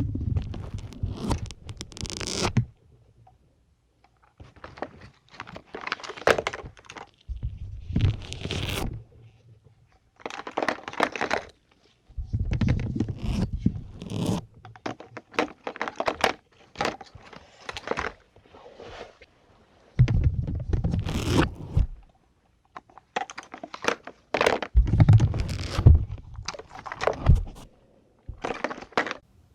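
Syringes being pushed into a dense sponge, close to the microphone: a run of separate crunchy, scraping squeaks, each lasting a second or two, with short pauses between them.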